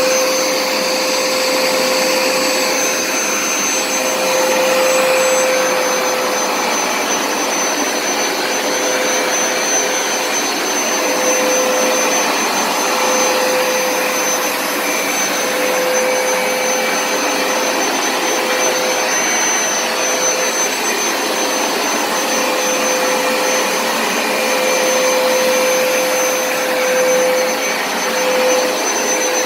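Hoover Smartwash carpet cleaner running steadily: a constant motor whine over the rush of its suction.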